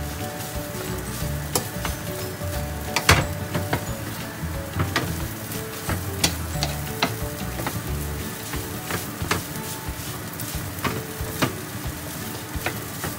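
Leftover rice and mixed vegetables stir-frying in a hot pan: steady sizzling, with a spatula scraping and knocking against the pan at irregular moments.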